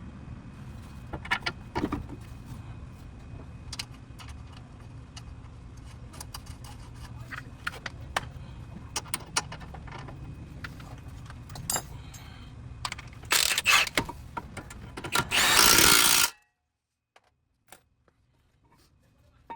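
Metal tools and parts clinking and clanking over a steady low hum, then a loud burst of about a second from a power tool near the end that cuts off suddenly.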